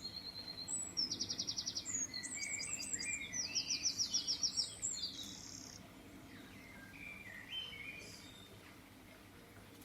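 Several birds calling and singing, including two fast trills of rapidly repeated high notes about a second in and again around three and a half seconds in. After about five seconds the song thins to fainter, scattered chirps.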